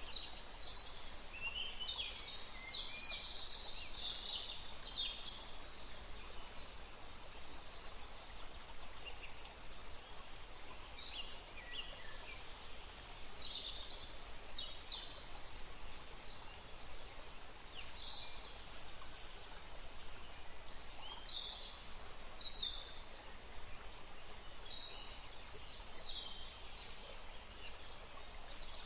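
Songbirds chirping and trilling in short, quick calls throughout, over a steady rushing background of wind in trees or running water.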